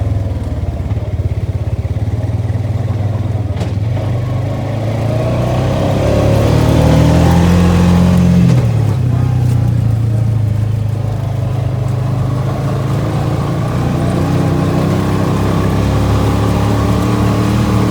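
ATV engine running while riding, with a steady low drone. The engine climbs in pitch about six seconds in, then drops back about eight and a half seconds in.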